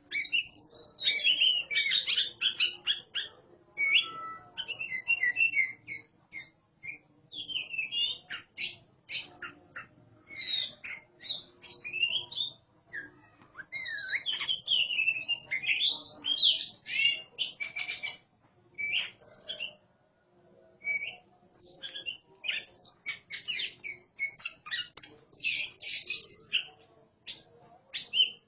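Oriental magpie-robins (kacer) singing back and forth, a varied run of rapid whistles and chirps in short phrases broken by brief pauses.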